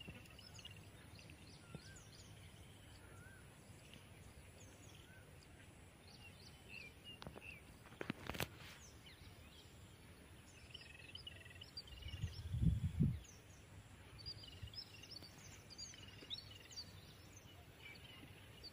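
Small birds chirping and calling in short repeated notes over a quiet outdoor background, with a couple of sharp clicks about seven and eight seconds in and a brief low rumble about twelve seconds in.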